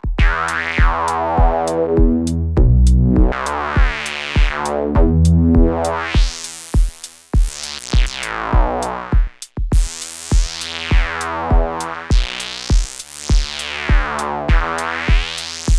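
Analog synthesizer sequence through the Swenigiser Proto VCF/A Eurorack filter, its cutoff sweeping slowly up and down so the tone brightens and darkens over a few seconds at a time. The input is driven hot for a gritty sound. A steady kick-drum beat runs under it, a little under two beats a second, with a brief dropout about nine seconds in.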